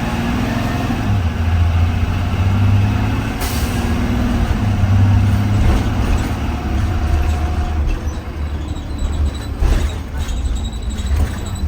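A 2020 Blue Bird Vision school bus under way, heard from on board: the engine drones steadily as its pitch rises and falls with speed. About three and a half seconds in there is a short sharp hiss of air, and near the end a few brief knocks and rattles.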